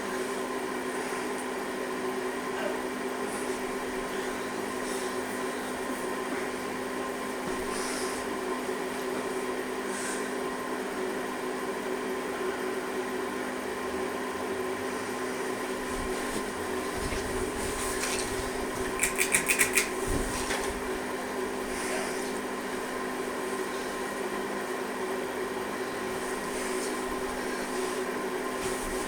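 Hunter Coastal Breeze ceiling fan motor running with a steady hum. About two-thirds of the way through comes a quick run of sharp clicks lasting under a second.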